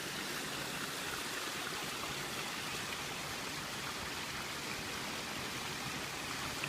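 Steady rushing and burbling of a babbling brook.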